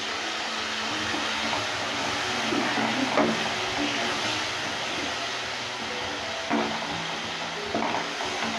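Onion and spice paste in hot oil in a nonstick kadai, hissing and sizzling steadily as a splash of water boils off. A wooden spatula stirs and scrapes through it, knocking on the pan a few times.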